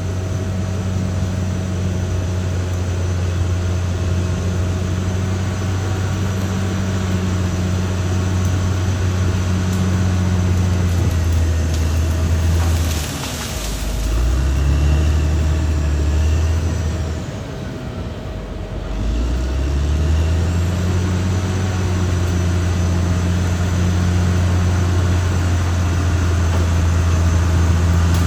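Caterpillar D6R XL bulldozer's diesel engine running steadily. Twice the engine note falls and then climbs back: briefly about halfway through, and for a couple of seconds a little later.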